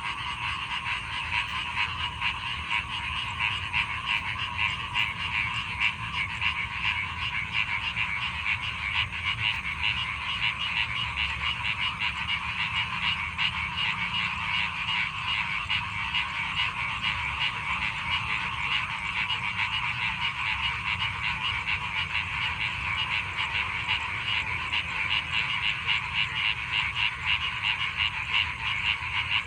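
A chorus of many frogs calling together, a dense mass of fast overlapping calls that keeps up steadily without a break.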